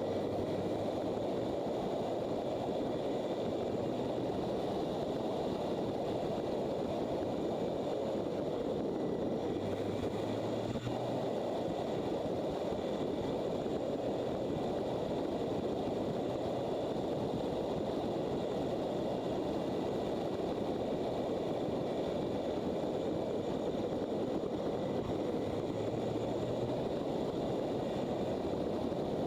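Motorcycle on the move: a steady rush of wind and road noise over the microphone, with the engine's low note faintly coming and going.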